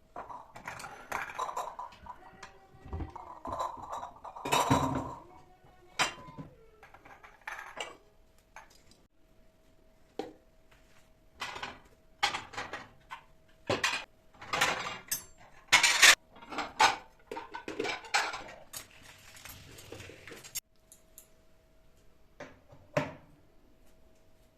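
Dishes and cutlery clinking and clattering as they are handled and set down in a kitchen, in many separate knocks and clinks. A faint steady tone sounds underneath from about a third of the way in.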